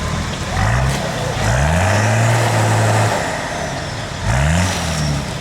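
Off-road 4x4's engine revving in three rises, the second held high for over a second.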